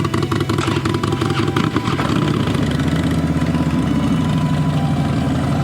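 Motorcycle engine idling steadily, just after being started.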